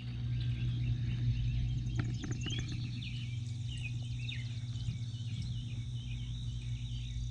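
A bird singing a quick, repeated series of short chirps over a steady low hum.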